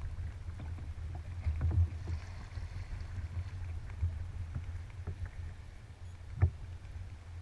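Kayak on open water: paddle strokes and water splashing and lapping against the hull over a steady low rumble, with one sharp knock about six and a half seconds in.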